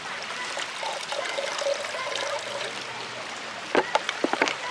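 River water running steadily. Near the end comes a quick run of sharp clicks and knocks.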